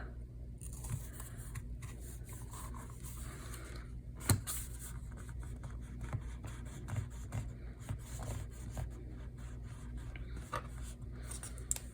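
Bookbinding awl being pushed and worked through a very thick stack of paper to pierce a sewing hole: faint scraping and rubbing with scattered small clicks, and one sharper click about four seconds in.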